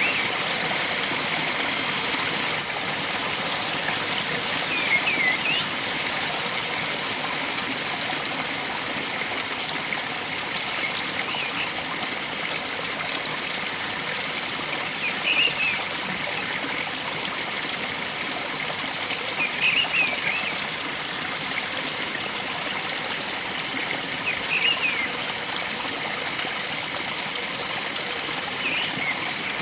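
Steady rush of flowing water, with a bird giving short, high chirps every four or five seconds, about six times.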